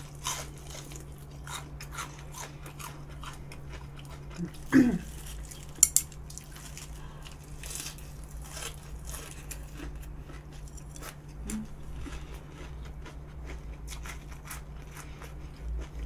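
Close-up biting and chewing of deep-fried Korean twigim (fried snacks): many small crisp crunches and mouth clicks, with two louder sharp sounds about five and six seconds in.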